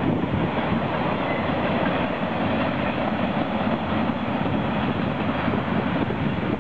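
Freight train cars rolling past, a steady loud noise of steel wheels running on the rails.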